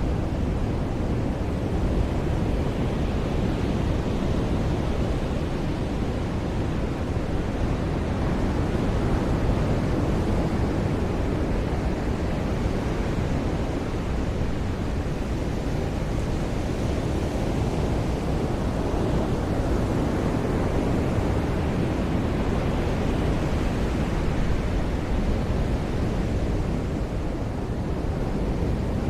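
Ocean surf washing onto a beach: a steady, full rush of waves, swelling and easing only slightly.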